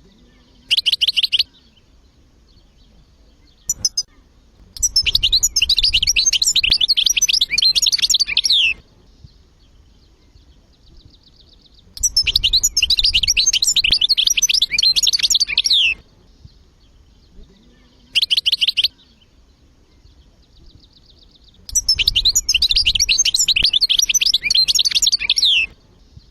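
European goldfinch singing: three long twittering phrases of about four seconds each, with short single chirps between them and a faint rapid trill in the gaps.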